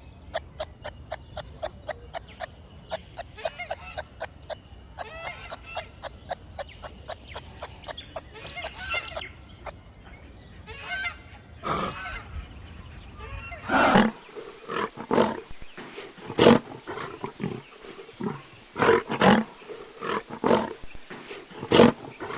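Animal calls: a fast run of short repeated calls over the first half, then louder separate calls through the second half.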